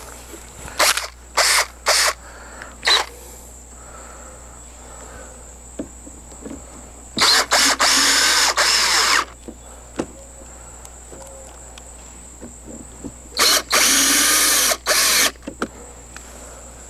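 Power drill driving screws: four short trigger bursts in the first three seconds, then two longer runs of about two seconds each, one around the middle and one a few seconds later.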